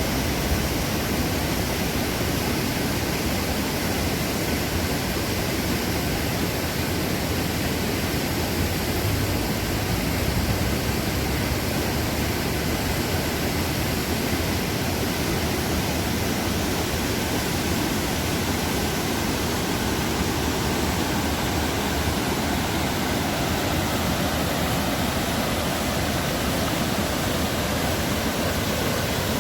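Waterfall of the Dubai Water Canal, water pouring steadily in an unbroken, even rush.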